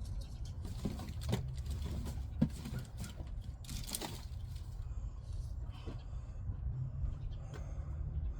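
Scattered rustling, scraping and small clicks of garden handling while planting seeds, with a louder rustle about four seconds in, over a steady low rumble.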